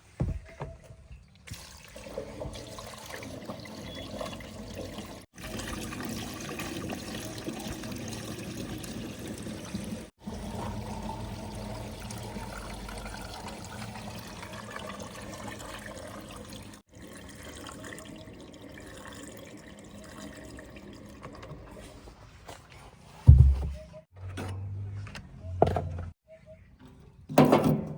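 JCB 3DX backhoe loader at work loading mud, with a steady rushing, pouring noise of loose soil. The noise drops out briefly three times, and a few loud low thumps come near the end.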